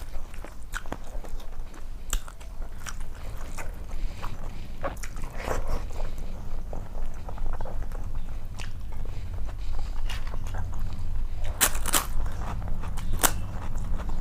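A person chewing and biting food close to the microphone, with many short, sharp crunchy clicks scattered throughout.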